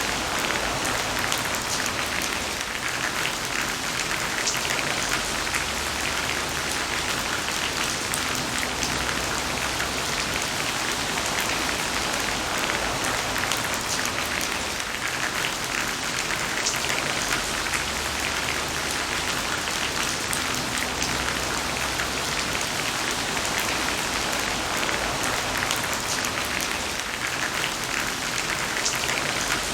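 Heavy rain falling steadily: a dense, even hiss with many crisp individual drops pattering through it, and a faint low rumble that swells and fades every few seconds.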